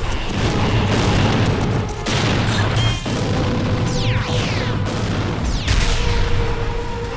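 Cartoon action sound effects over background music: heavy booms and rumbling, with two quick falling whooshes near the middle and toward the end.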